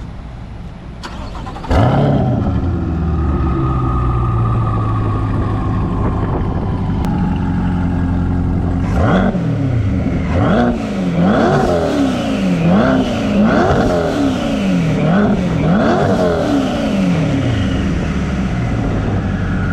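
Twin-turbo C8 Corvette V8 starting suddenly and settling into a steady idle through its catback exhaust. About halfway through it is blipped about seven times in quick succession, each rev rising and falling, then it drops back to idle.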